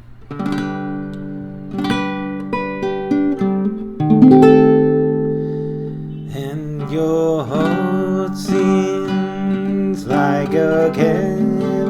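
Acoustic guitar playing a song's intro, plucked and strummed chords ringing out.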